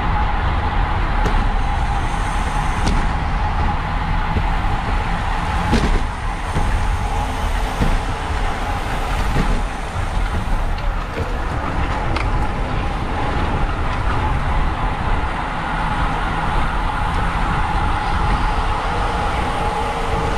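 Wind rushing over a bike-mounted camera's microphone as a racing bicycle rides at speed, with a steady hum underneath and a few sharp clicks.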